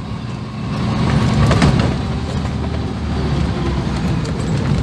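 1980 Land Rover Series III running as it drives along, a steady low engine and road sound, with a brief louder knock about a second and a half in.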